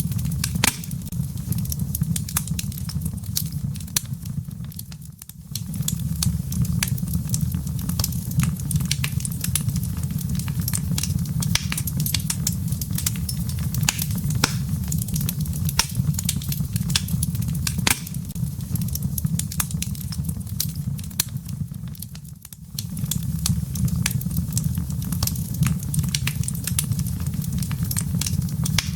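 Wood fire crackling in a fireplace: many sharp crackles and pops over a steady low rumble of the flames. The rumble briefly dips away twice, about five seconds in and again a little past twenty seconds.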